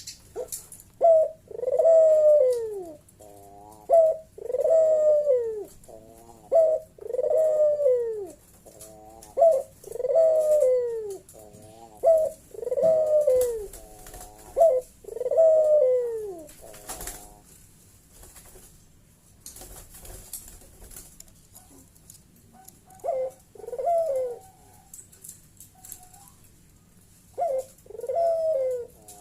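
Puter dove giving its bekur call. It makes a run of loud coos that fall in pitch, each about a second long, with short wavering rolled notes between them, for about sixteen seconds. After a pause, two more short bouts of cooing come near the end.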